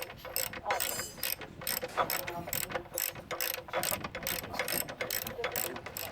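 Hand ratchet wrench being worked, its pawl clicking in a steady rhythm of about three clicks a second.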